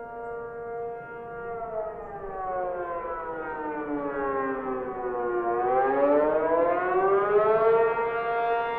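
Civil defense tornado warning siren wailing. Its pitch sinks slowly for about four seconds, then climbs back up and levels off, getting louder as it rises.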